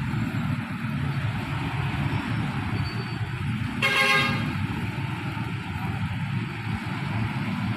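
A short horn toot of about half a second, about halfway through, over a steady low rumble.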